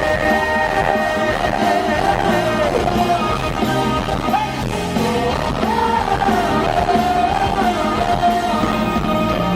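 Live rock band playing loudly with a singer holding long notes that slide in pitch, recorded from the audience at a concert.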